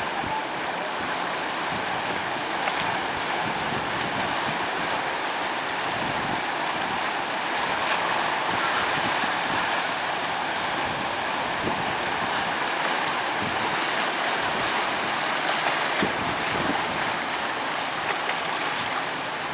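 Sea surf washing on a sandy beach, a steady rush of waves.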